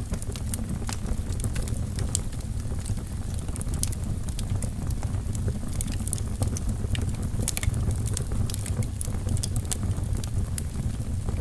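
Wood fire burning in a fireplace: a steady low rumble of the flames with frequent irregular crackles and pops from the logs.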